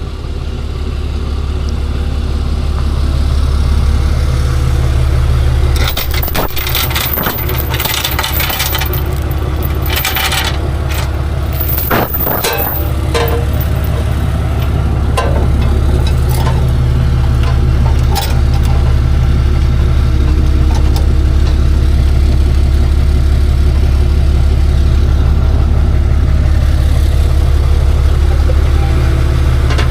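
Tow truck engine running steadily with a deep hum. A flurry of sharp metallic clinks and clanks comes in about six seconds in and dies away by about thirteen seconds.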